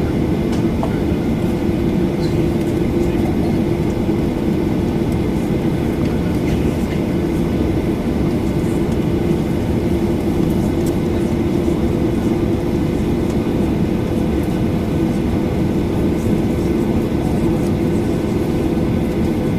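Boeing 737-800's CFM56-7B engines running at a steady idle, heard inside the cabin as an even rumble with a constant hum.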